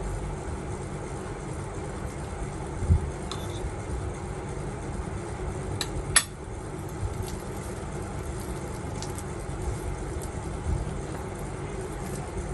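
Eating at a table over a steady low rumble: soft low thumps of chewing and a few light clicks of utensils or chopsticks on tableware, the sharpest about six seconds in.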